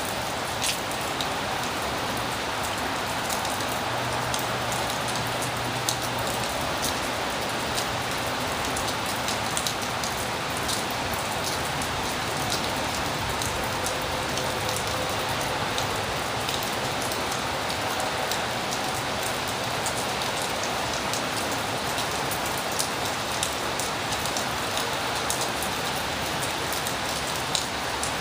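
Heavy rain falling steadily, with many sharp ticks of drops striking a nearby surface.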